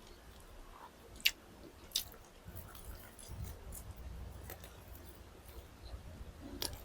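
A person chewing food close to the microphone: soft, wet mouth clicks and smacks, with two sharper clicks about one and two seconds in.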